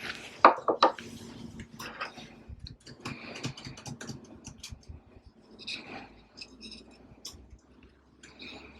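Small toy figurines and their packaging being handled: scattered light clicks, taps and rustles, with a couple of louder knocks about half a second to a second in.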